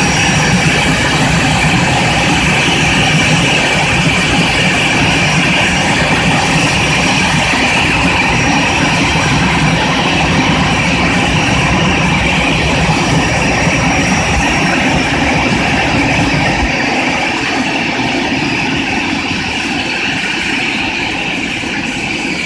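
Aircraft turbine engine running steadily at idle on the apron: a high whine over a low rumble. The low rumble drops away about three quarters of the way through.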